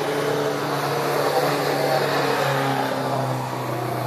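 Classic competition cars' engines driven hard up a hill road, one car passing close by. The engine note holds steady and then drops in pitch about two and a half seconds in.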